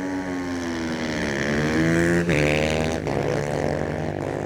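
Drag-racing motorcycles launching off the line at full throttle, the engine note climbing and then dropping sharply about two seconds in at a gear change.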